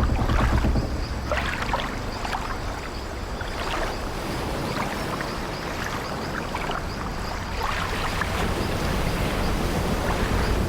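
Sea waves washing against an old wooden ship over a steady low rumble, with scattered short creaks of the ship's timbers. The wash eases a few seconds in and swells again near the end.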